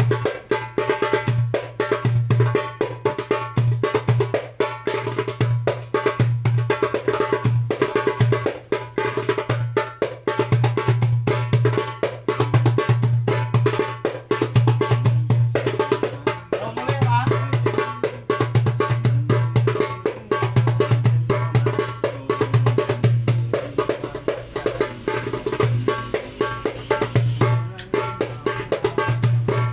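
A 9-inch darbuka (goblet drum) with a Remo plastic head played in fast rhythms: deep bass strokes mixed with many quick, sharp rim strokes, sounding the drum out.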